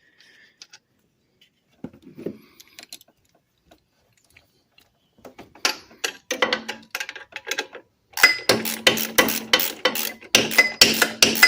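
Socket ratchet clicking in quick runs as a bolt is worked loose, with a few faint metal clinks before it. The clicking grows dense from about eight seconds in.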